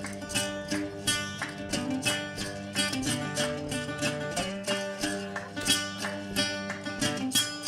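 Instrumental music on a plucked string instrument, picked in a steady run of several ringing notes a second, with no singing.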